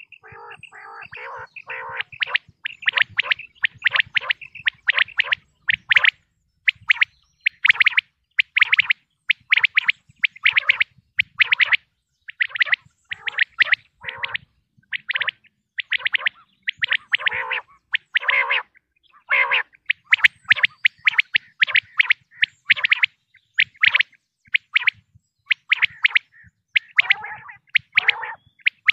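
Common quail calling over and over: quick runs of short, high notes in groups, some phrases with lower notes beneath.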